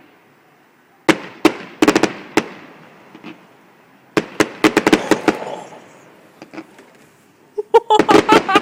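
Fireworks exploding in three volleys of sharp bangs, each volley followed by a rumbling echo that dies away before the next; the last volley, near the end, is the densest.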